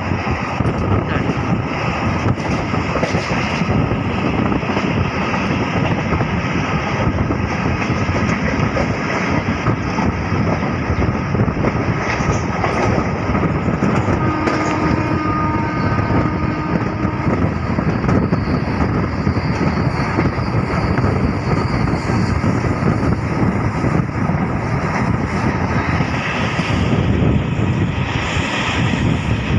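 Indian passenger train coach running at speed, a steady rumble of wheels on the rails, heard at an open coach window.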